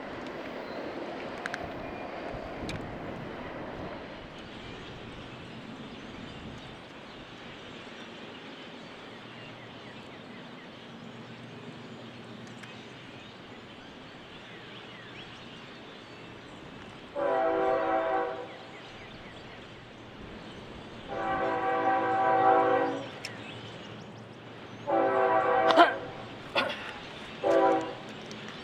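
A freight locomotive's air horn sounds four blasts, the second the longest, over a steady rumble from the train.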